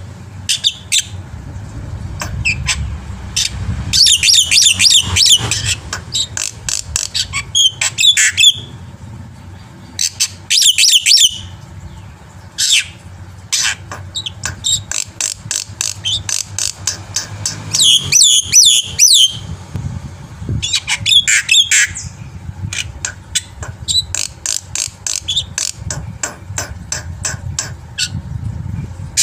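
Black-winged myna (jalak putih) singing loudly in bursts of harsh, rapid chattering and whistled gliding notes, phrases of a second or two with short gaps between. A low steady hum runs beneath.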